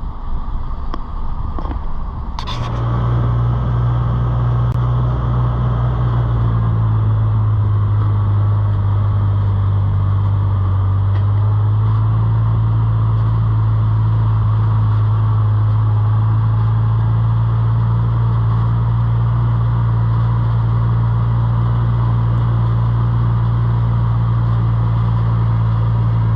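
A short knock about two seconds in, then a vehicle engine starts and runs with a steady low hum.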